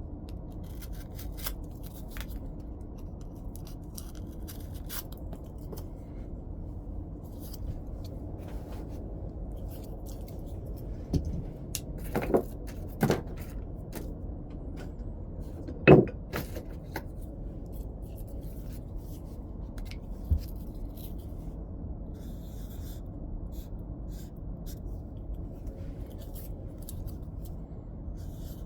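Flintknapping: stone being worked with hand tools, with light scraping and small ticks of abrading and flaking, and a handful of sharper knocks in the middle, the loudest about sixteen seconds in. A steady low hum lies underneath.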